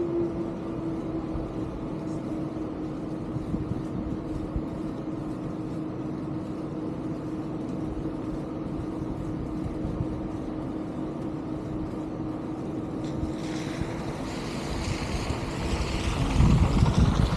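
Steady motor hum holding one constant tone over a rushing noise. About three quarters of the way through, hiss rises, and near the end wind buffets the microphone in loud gusts.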